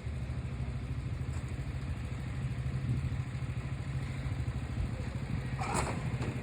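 Truck engine idling with a steady, fast-pulsing low rumble. A brief clatter sounds near the end.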